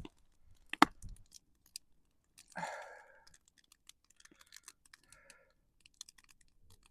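Wood campfire crackling quietly with scattered sharp pops and clicks, one sharper pop about a second in and a short rustling burst around three seconds.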